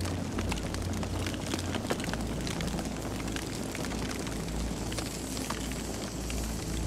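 Campfire burning: wood crackling and popping with many quick, irregular snaps over a steady low rumble of the flames.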